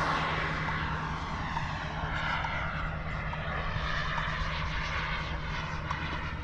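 Radio-control model L-39 Albatross jet flying on its kerosene turbine, a steady jet hiss and whine that fades a little over the first second, then holds as the plane flies at a distance.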